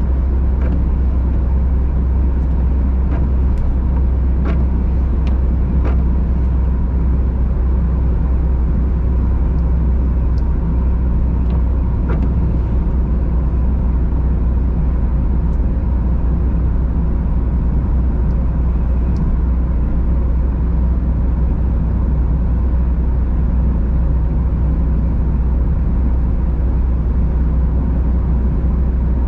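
Car driving steadily on a winter road: a constant low rumble of engine and tyres on the road surface, with a few light clicks in the first six seconds.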